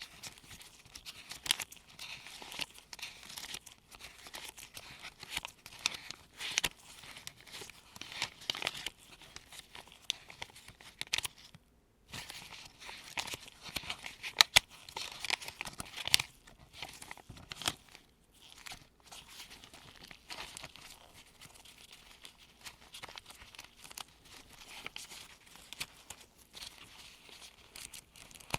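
US $1 paper bills being flipped over one at a time like pages by gloved hands, a close, continuous run of crisp rustling and papery snaps. There is a brief pause about twelve seconds in.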